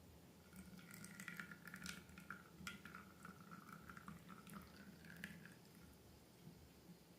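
Faint, sticky crackling and small wet clicks of slime being worked by hand. They start about half a second in and die away after about five seconds.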